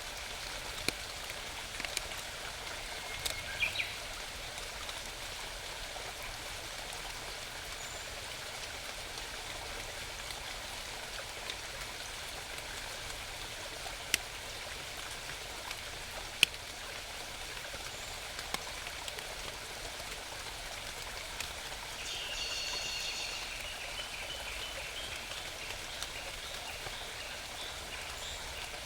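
Small mountain stream babbling steadily, with a few sharp clicks and a bird calling briefly about three-quarters of the way through.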